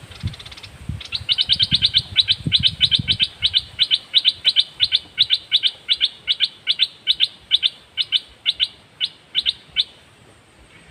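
Caged songbird giving a long fast series of short, sharp, high chirps, about four a second, from about a second in until near the end. Soft low knocks sound under the first few chirps.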